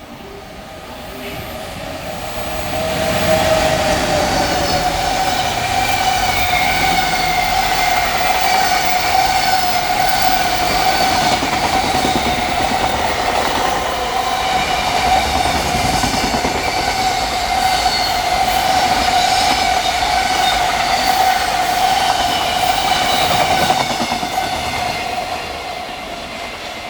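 A long freight train rolls past, building up over about two seconds, then running steadily for some twenty seconds before it fades. A steady whine rides over the rumble and clatter of the wheels on the rails.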